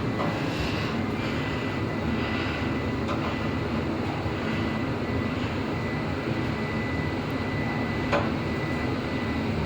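Old Fujitec passenger lift car travelling upward: a steady running rumble with a thin high whine, and a single click about eight seconds in.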